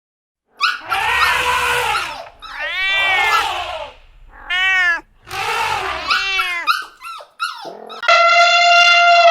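An animal calling: four or five pitched cries that rise and fall, each about a second long. About eight seconds in, a steady held note begins.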